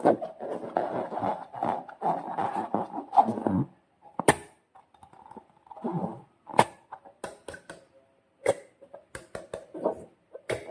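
Slime being squeezed and worked by hand: dense, crackly squishing for the first few seconds, then a run of separate sharp clicks and pops.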